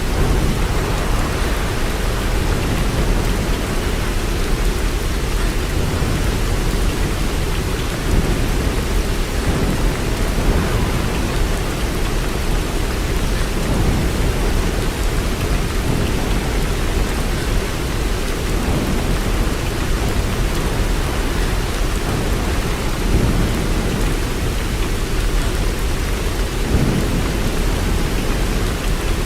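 Steady heavy rain, with a deep low rumble underneath that swells now and then.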